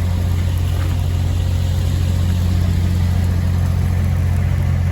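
Diesel engine of a heavy recovery truck running steadily at a constant speed, a loud even low hum with no change in pitch.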